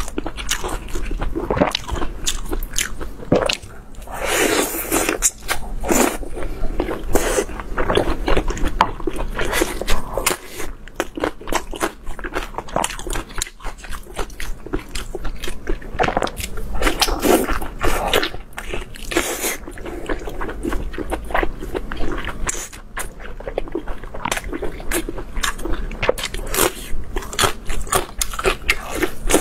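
Close-miked eating: biting and chewing a soft, sauce-covered sausage, with wet mouth sounds and many small irregular clicks.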